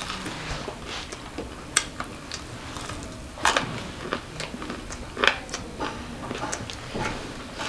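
A person eating fast: irregular crunchy bites and chewing of raw food, with a few sharper clicks spread through.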